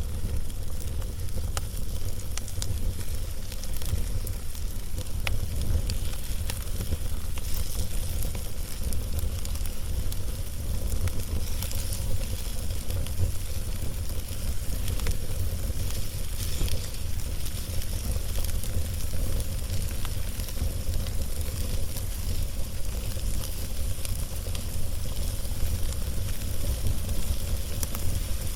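Wood fire burning on a log: a steady hiss with scattered sharp crackles and pops, over a deep steady rumble.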